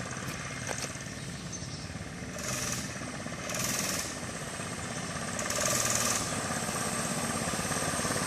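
Small engine of a mini bike running with a rapid, even putter, speeding up in three short swells as the throttle is opened.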